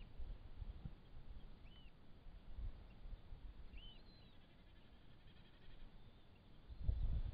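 A bird's short, high, arching chirps, a few of them in the first half, over a low rumbling noise that grows louder near the end.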